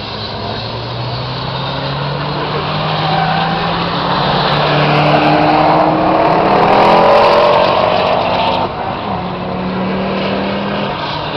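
Turbocharged Peugeot 206 engine pulling hard on a circuit, its pitch climbing steadily for several seconds before dropping suddenly about two-thirds of the way through, then carrying on at a lower, steady note.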